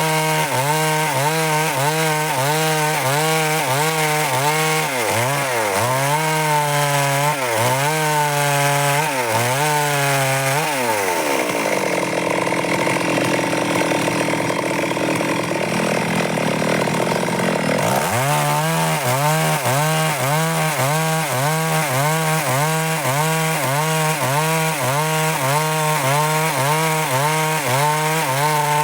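Stihl MS 382 two-stroke chainsaw cutting dry wood at high revs, its pitch dipping and recovering about once a second as the chain works through the cut. For several seconds in the middle the steady pitch gives way to a rougher, noisier sound, then the rhythmic dipping returns.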